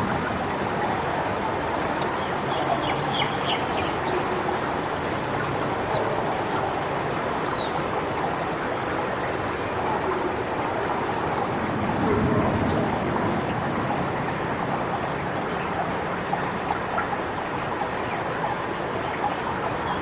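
Steady rushing of strong wind and rain through coconut palm fronds in a tropical storm. A few faint bird chirps come through about three seconds in and again a little later.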